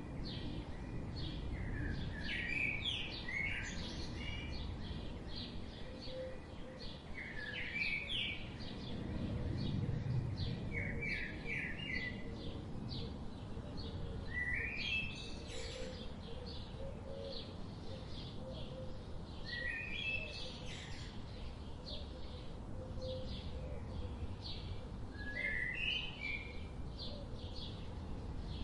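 Forest birdsong: several birds singing short chirping phrases every few seconds, with fainter chirps throughout, over a steady low rumble of background noise.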